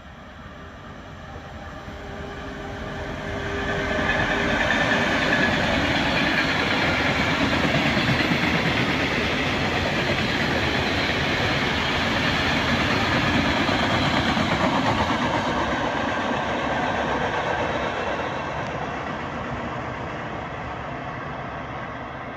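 Freight train of tank wagons passing close by. The rumble of wheels on rail builds over the first few seconds, with a faint steady whine as the locomotive approaches, stays loud for about fourteen seconds while the wagons roll past, then fades as the train draws away.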